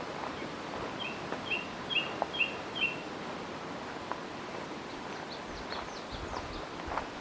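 Songbird calling outdoors: a phrase of five short, repeated whistled notes at about two a second, then a quick run of higher, downward-sweeping notes. A faint steady outdoor hiss and scattered light clicks sit underneath.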